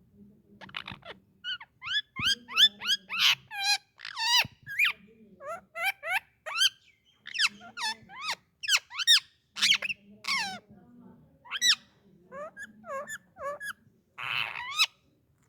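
Indian ringneck parakeet giving a rapid string of sharp, high chirps and squawks that swoop up and down in pitch, ending in a harsher, raspy call near the end.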